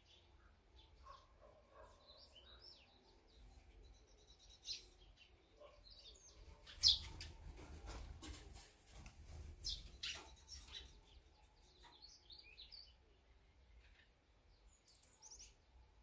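Songbirds chirping in short, scattered calls, the loudest a sharp note about seven seconds in, over a faint low rumble.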